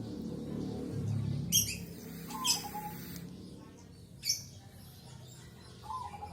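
Birds calling in short, sharp, high-pitched bursts that recur about every two and a half seconds, over a steady low hum.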